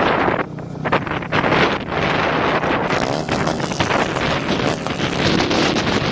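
Wind buffeting the microphone on a moving motorcycle, rising and falling in gusts, with the straight-piped motorcycle's exhaust running steadily underneath.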